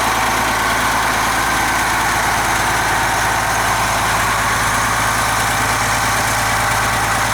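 Cummins 8.3-liter turbo diesel engine of a rear-engine transit bus idling steadily.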